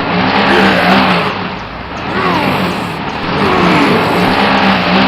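Motor engine running loud and steady, with the pitch rising and falling in repeated revs every second or two.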